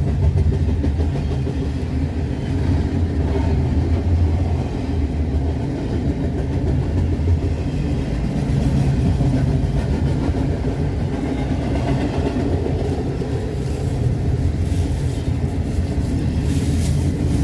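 Train passing with a steady low rumble, with a few sharp clicks near the end.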